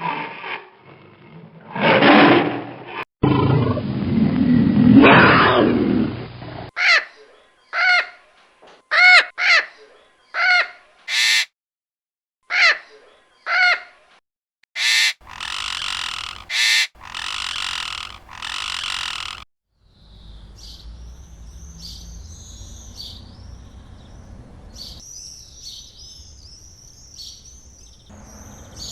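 A run of animal calls, one after another. In the first several seconds comes a big cat's growling roar. Then come a string of short high calls, three longer noisy calls, and finally faint bird chirping over a low steady background.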